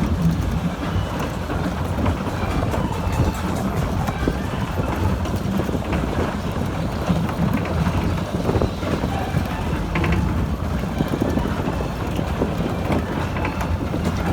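Mack Rides Regatta fairground ride in motion, heard from on board: a steady low rumble.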